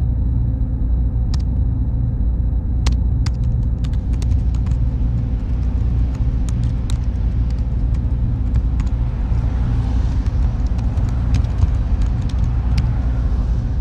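Server room ambience: a steady low drone of machine cooling fans with a faint steady whine, and scattered sharp clicks throughout.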